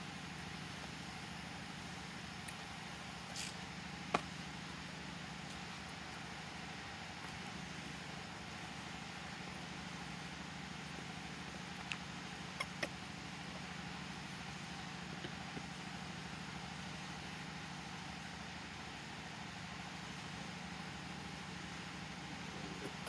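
Steady rain, with a low hum underneath and a few sharp ticks, the loudest about four seconds in and a pair near the middle.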